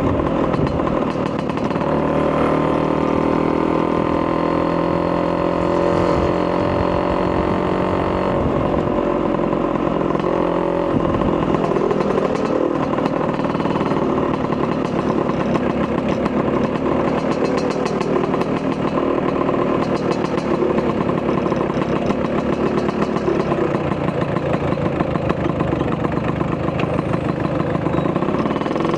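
Two-stroke single-cylinder engine of a Vespa PX200 with a 210cc Polini kit, exhausting through a Malossi expansion chamber. It runs steadily, and its note starts shifting up and down about eight seconds in.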